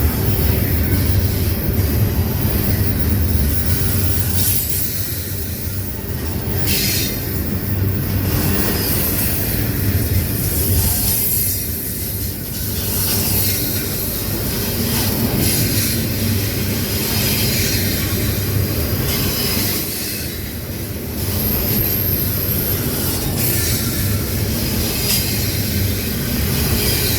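Train rolling past, wheels rumbling over the rails with a steady high hiss and a brief high-pitched wheel squeal a little past two-thirds of the way through.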